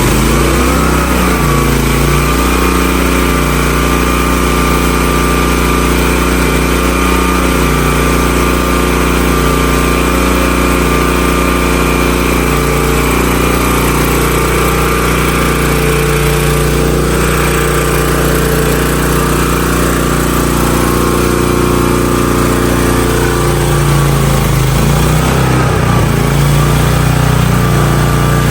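The 16-horsepower gasoline engine of a Hotsy pressure washer running steadily just after starting. Its pitch settles in the first couple of seconds and shifts briefly near the end.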